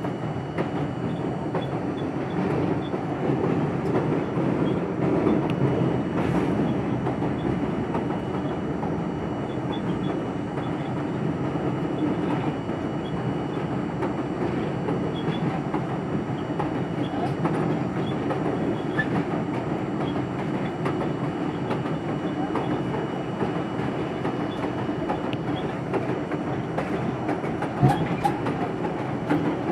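R42 subway train running between stations: a steady rumble of wheels on the rails, with light clicking over the rail joints and one sharp knock near the end.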